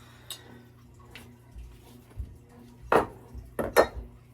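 A few short knocks and clatters of kitchen pots and utensils, the loudest ones coming about three seconds in and just before the end.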